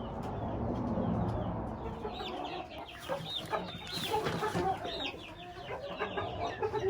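Several chickens clucking, their short calls overlapping from about two seconds in.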